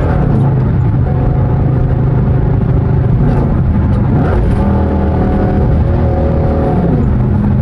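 Dodge Charger R/T's 5.7-litre Hemi V8, running with its mid mufflers cut out, accelerating hard with the pitch climbing. Near the end the pitch drops suddenly as the automatic shifts up.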